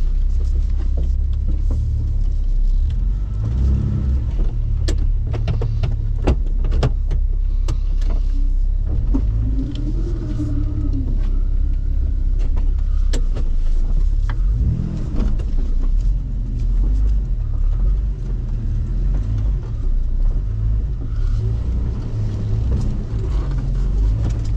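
Jeep Wrangler LJ engine running at low speed with a steady low rumble. Sharp knocks and rattles come over the first third, and the engine rises and falls in pitch briefly twice, around the middle.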